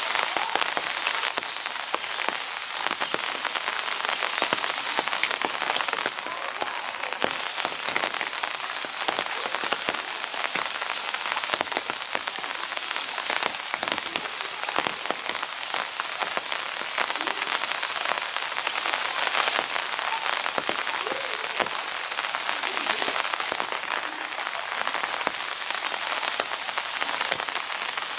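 Steady rain falling, with a dense mass of small drop impacts on hard surfaces and no change in strength.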